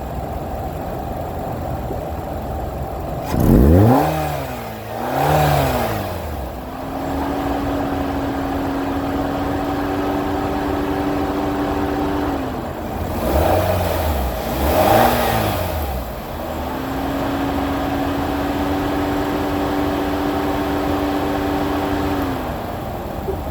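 Car engine, filmed from the open engine bay, revved by hand twice. Each time it gives two quick blips and then holds a raised, steady speed for about five seconds before settling back to idle.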